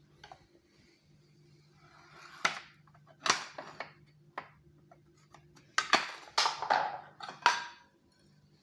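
A series of sharp clicks and clacks of a hand tool cutting a small sample on a lab bench, in uneven groups, with a faint steady low hum of lab equipment underneath.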